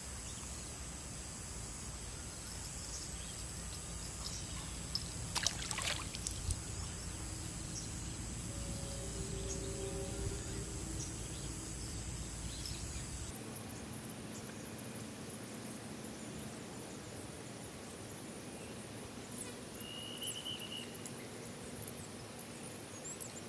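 Outdoor ambience of insects chirring steadily at a high pitch, with a few light clicks. About halfway through, the insect sound and the low rumble stop abruptly, leaving quieter open-air ambience with one short chirp and scattered small clicks.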